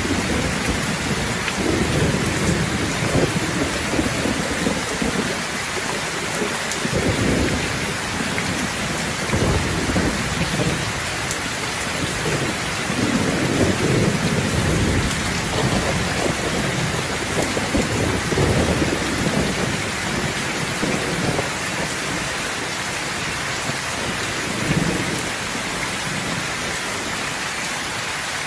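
Heavy rain falling steadily, with thunder rumbling low again and again, in rolling swells that come and go and ease off near the end.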